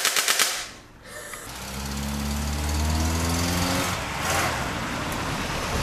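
A toy rifle fires a rapid rattling burst for about half a second. Then a car's engine runs as the car drives up a driveway, its pitch rising slightly over the next two seconds.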